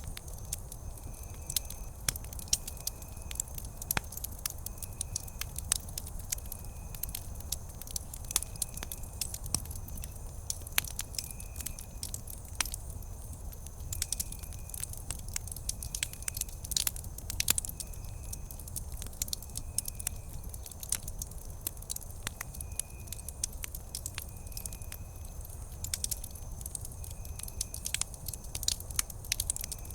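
Wood campfire crackling and popping: dense, irregular sharp snaps over a low, steady rumble of the burning fire. Behind it, a faint short tone repeats about once a second.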